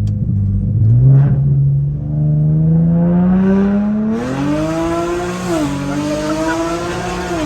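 Car engine through a loud single-exit Tomei exhaust with test pipes and headers, revving up hard under acceleration. The pitch climbs steadily, dips briefly about five and a half seconds in as it shifts gear, then climbs again before dropping off as the throttle is lifted near the end.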